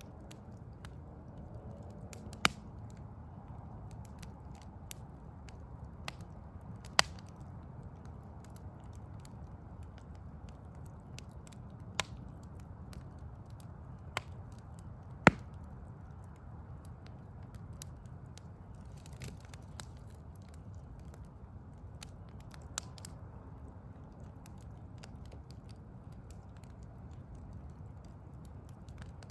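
Burning logs in a wood fire crackling, with a handful of sharp pops several seconds apart, the loudest about fifteen seconds in, over a steady low rumble.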